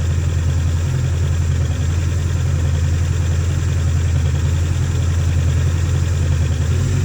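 Yamaha WaveRunner SVHO 1.8-litre supercharged four-cylinder engine idling steadily with a constant low hum.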